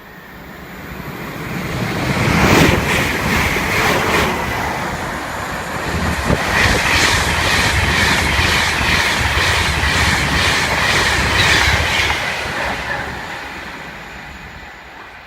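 A train passing through the station at speed. It builds up over about two seconds, then the wheels clack in an even run over the rail joints for several seconds before the sound fades away.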